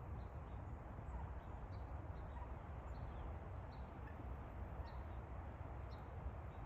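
Faint steady outdoor background rumble with short, high bird chirps scattered irregularly through it, a dozen or so in all.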